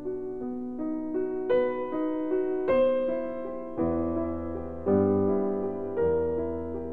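Background piano music: a slow melody of single notes and chords, a new one struck about once a second, each fading away after it is struck.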